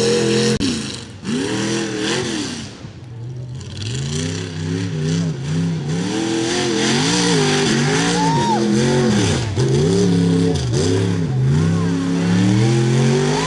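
A tough-truck race truck's engine revving hard and dropping back over and over, its pitch climbing and falling roughly once a second as the throttle is worked. The engine sound is weaker for a couple of seconds near the start, then runs loud again.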